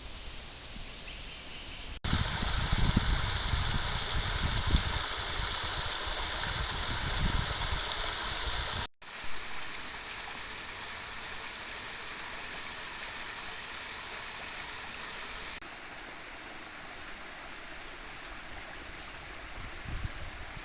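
Creek water rushing and splashing in a steady stream. There are sudden cuts about two, nine and fifteen seconds in. The loudest stretch, from about two to nine seconds, has a low rumble under the rush.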